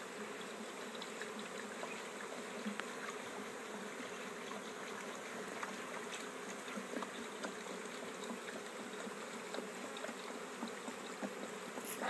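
Steady buzzing of a honeybee swarm freshly shaken into a hive, with a few faint clicks.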